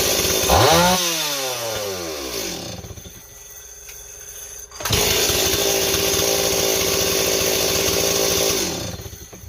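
STIHL 026 two-stroke chainsaw running after repair of a stiff carburettor metering diaphragm: blipped about half a second in and falling back toward idle, then held at full throttle from about five seconds in for nearly four seconds before it is let off near the end.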